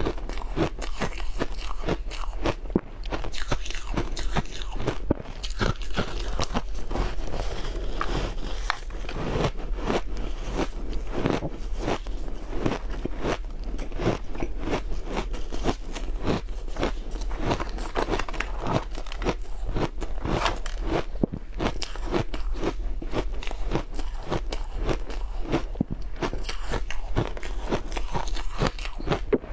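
Close-miked crunching and chewing of powdery ice balls: a dense, irregular run of crisp crunches that goes on without a break, over a steady low hum.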